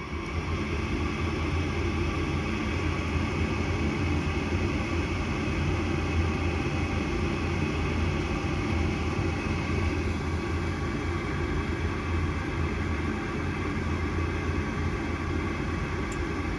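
Goodman gas furnace's draft inducer motor starting up and running steadily with a low hum and rushing air, the pre-purge stage before the igniter lights the burners.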